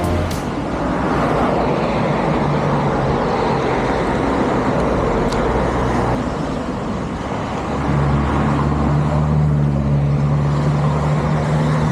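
Road vehicle noise: a motor running with a steady road and wind rumble. About two-thirds of the way in, a steadier low engine hum comes up.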